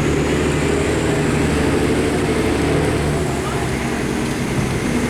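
Boat engines running steadily with a low, even drone.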